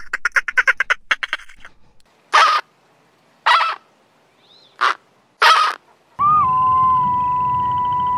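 Dolphin chattering in a rapid train of clicks, then four short flamingo honks, then an arctic wolfdog starting one long, steady howl about six seconds in.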